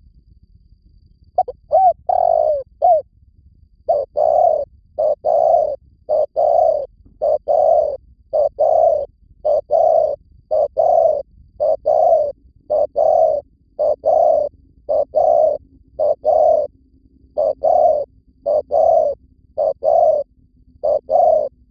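Spotted dove cooing over and over, a long run of short coos in quick pairs and groups after a pause of about a second and a half. It is a decoy call for luring doves.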